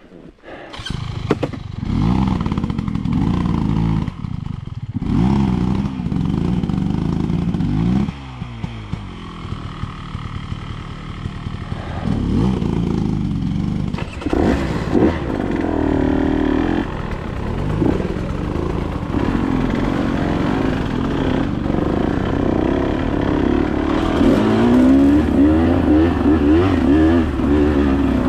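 Dirt bike engine being ridden, its pitch rising and falling with the throttle as it revs up and backs off, with brief let-offs in the first few seconds.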